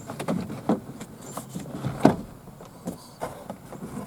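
Plastic interior door panel knocking and clicking against a car door as it is hung back in place, a scatter of separate knocks with the sharpest about two seconds in.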